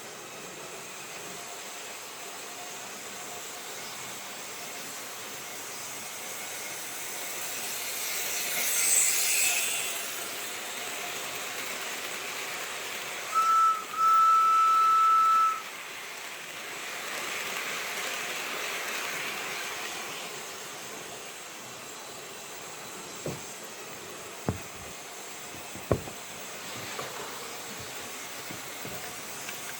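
Sound effects from an HO-scale Märklin model steam locomotive over a steady low hiss: a swell of steam hiss, then a steady whistle blown twice, a short blast and a longer one, then more steam hiss. A few sharp clicks come near the end.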